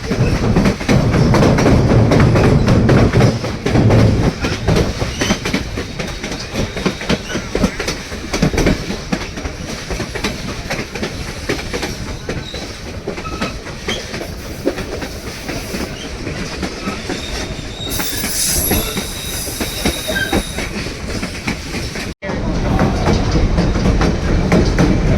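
White Pass & Yukon Route narrow-gauge passenger train running on the rails: a steady rumble with wheels clicking over the rail joints. A high wheel squeal comes in about three-quarters of the way through, typical of the wheels grinding on a curve. The sound breaks off for an instant near the end.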